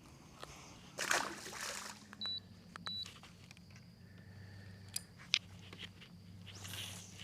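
A short splash of water about a second in, then two short high electronic beeps and a few sharp clicks over a low steady hum.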